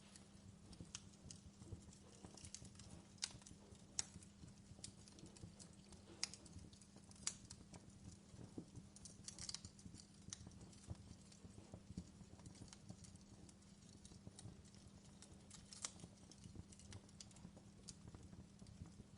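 Wood logs burning in a fireplace, crackling with small sharp pops at irregular intervals, over a faint steady low hum.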